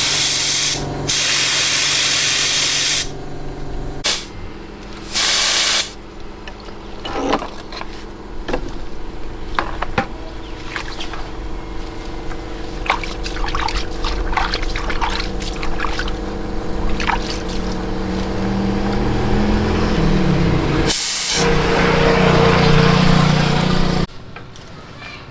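Loud bursts of hissing spray, a few seconds long, then scattered small clicks and knocks over a steady hum. Near the end, a falling tone runs into a louder hum.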